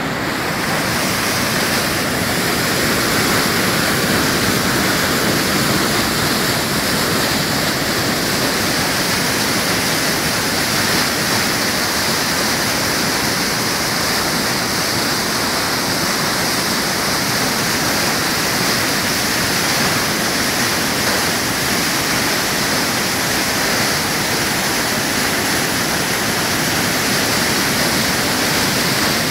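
Floodwater rushing steadily, a loud continuous noise like a weir or waterfall.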